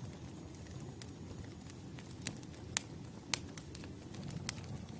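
Campfire burning: a low rumble of the flames with scattered sharp crackles and pops of the wood, the loudest a few about two to three and a half seconds in.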